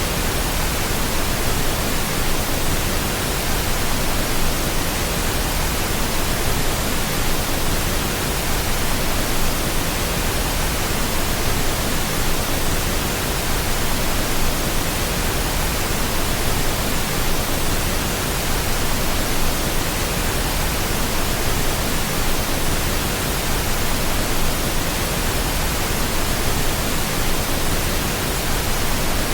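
Steady pink noise: an even, unchanging hiss spread across all pitches, played continuously as a sleep aid for babies.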